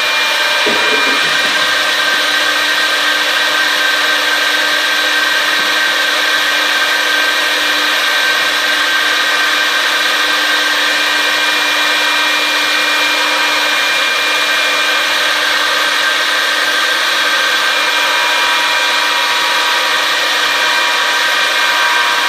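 Stemas CNC woodworking machine running a cycle, its router spindles milling wood: a steady loud whine with high spindle tones over continuous cutting noise.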